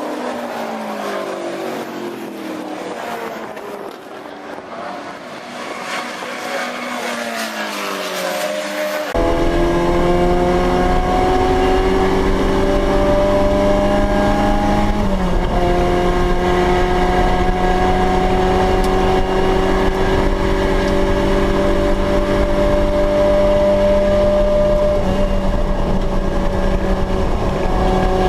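Racing touring cars' engines: first several cars passing, their engine notes rising and falling. About nine seconds in, the sound turns abruptly louder, to one steady engine note that climbs slowly, drops once and climbs again.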